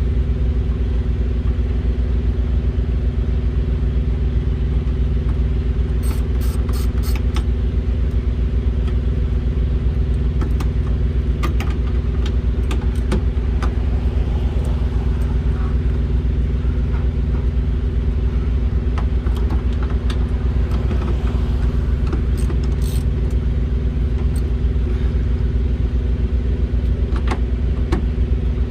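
Diesel engine idling steadily, with a socket ratchet clicking in short quick runs and tools clinking against metal now and then.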